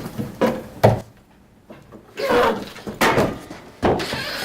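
Two sharp knocks in the first second, the second a heavy low thump, followed by three rougher, noisier stretches of sound.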